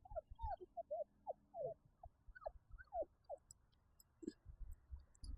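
Labradoodle puppies, about five weeks old, whimpering and squeaking in a run of short high whines that arch up and fall away, with soft low bumps underneath.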